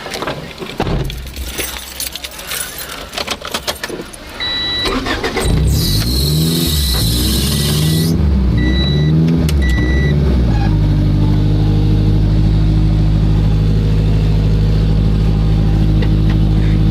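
Keys rattling and clicking, then a car's warning chime beeping repeatedly. A little over five seconds in the engine starts, its pitch rising and falling for a few seconds before it settles into a steady idle.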